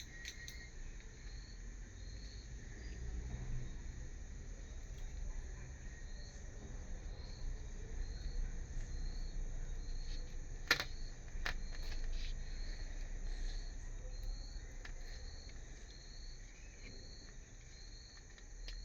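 A cricket chirping steadily at about two chirps a second over a low background rumble, with one sharp click about halfway through.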